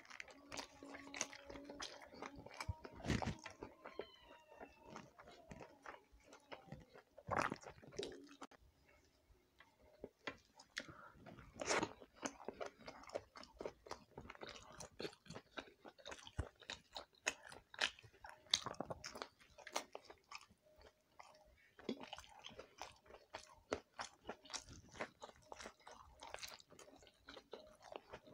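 Close-miked chewing and mouth sounds of a person eating roti and soft pitha: irregular wet smacks and clicks throughout, with a few louder ones standing out.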